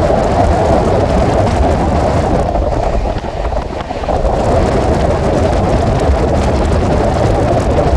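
Running noise of an express passenger train at speed: a steady rumbling rush, sped up to double speed. It dips briefly about three seconds in, then comes back.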